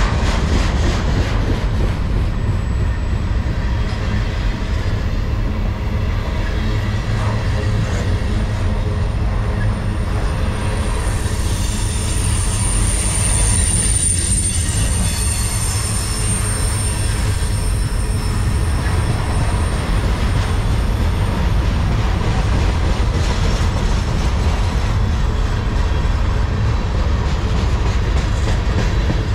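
Freight train of container flatcars rolling past close by, a steady rumble of steel wheels on rail. A thin, high wheel squeal rises over it around the middle and fades a few seconds later.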